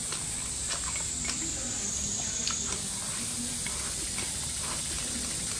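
Someone chewing close to the microphone: small wet mouth clicks and smacks, several a second at an uneven pace, over a steady hiss.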